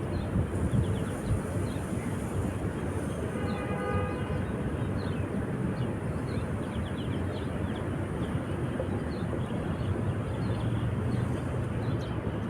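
Steady rushing outdoor noise, with many short high chirps throughout and a brief pitched call with overtones about three and a half seconds in.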